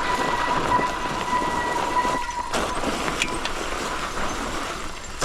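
Mountain bike rolling over a rough woodland trail, with wind and tyre noise and rattling knocks. A steady high-pitched brake squeal runs through the first half and stops about halfway through.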